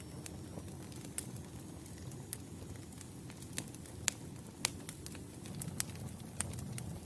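Wood campfire burning: a low steady rumble of flames with sharp, irregular crackles and pops from the burning logs, the loudest pair about four and a half seconds in.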